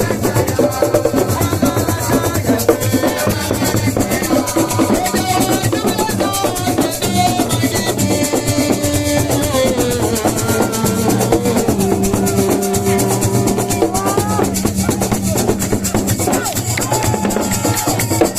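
Live percussion-driven music: drums and rattling shakers play a fast, steady rhythm under a gliding melody line.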